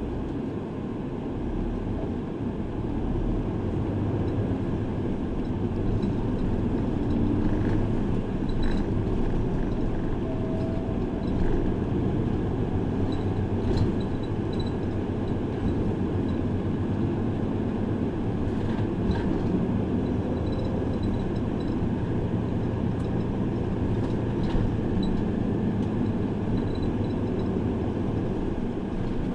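City bus running on the road, heard from inside the passenger cabin: steady engine and road noise with a few sharp rattles and clicks.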